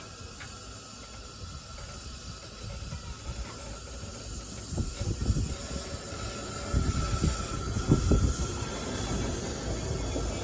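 JNR class C62 steam locomotive moving slowly under steam: a steady hiss of escaping steam over a low rumble that grows louder about halfway through, with irregular heavy knocks and chuffs.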